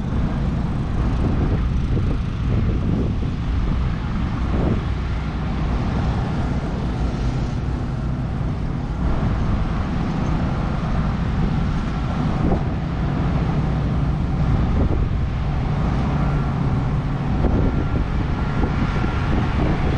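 Car engines running, a steady low rumble with no breaks.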